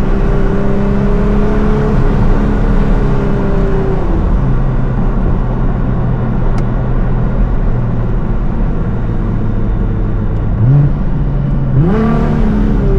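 Tuned Nissan R35 GT-R's twin-turbo V6 cruising at steady revs. The engine note drops about four seconds in, then rises quickly twice near the end as the throttle is opened again.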